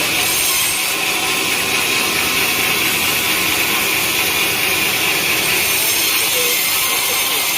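Sawmill saw running steadily, a loud, even mechanical noise with no pauses.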